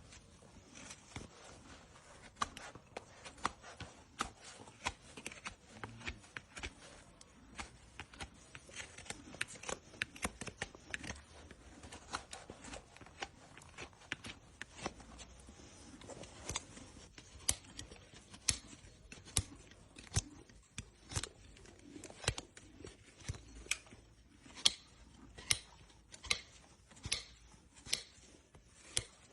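A horse's hoof being trimmed, hand tools cutting the horn: a run of sharp snips, irregular at first, then steady at about one a second through the second half.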